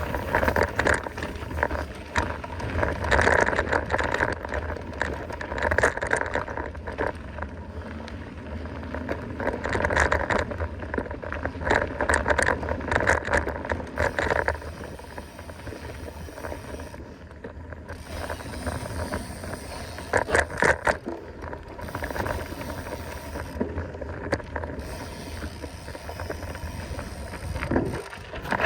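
Mountain bike descending a rough dirt trail at speed: tyres on dirt and gravel, with the bike rattling and knocking over bumps in an uneven stream of clatter.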